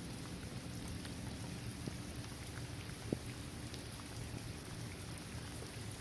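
Steady rain falling on a basketball court, trees and grass, with scattered single drops ticking through the hiss and one sharper drip about three seconds in.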